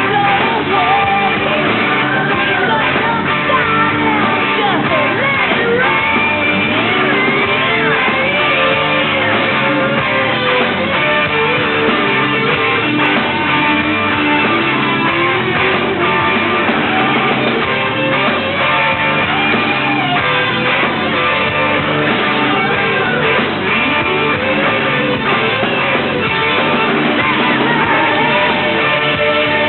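Hard rock band playing with distorted electric guitar and a singer shouting or belting the vocal line, at a steady loud level with the top end dulled.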